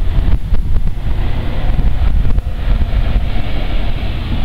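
Train running on the track, heard from on board: a steady low rumble with scattered knocks, and wind buffeting the microphone.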